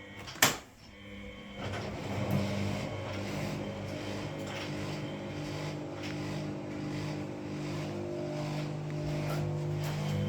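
A washing machine's sharp click, then its drum motor starting about a second later and running steadily with a hum, turning the drum during the wash.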